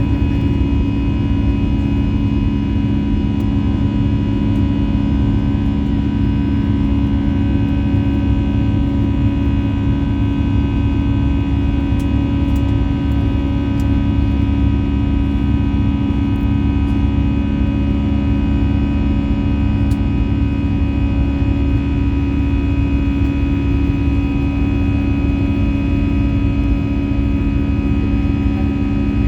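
Airbus A320-214's CFM56 jet engines heard from inside the cabin: a loud, steady drone with a low rumble and several steady tones that neither rise nor fall.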